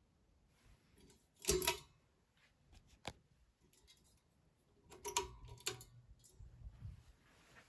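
Ceiling fan pull chains being tugged: the pull-chain switch clicks and the bead chain rattles, in three separate goes, the loudest about a second and a half in.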